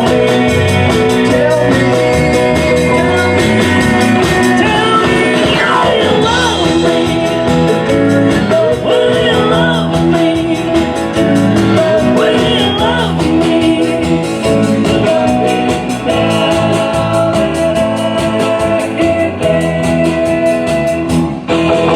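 Live rock and roll band playing a song, with electric guitar, singing and a steady drum beat.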